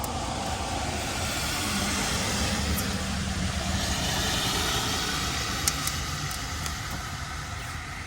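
Motor vehicle engine running steadily, with a rushing noise that swells in the middle and a single sharp click near the end.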